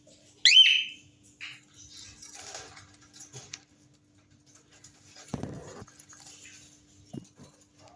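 Cockatiel giving one sharp rising chirp about half a second in, followed by soft scratchy sounds and a short noisy burst a little past five seconds in, over a faint steady hum.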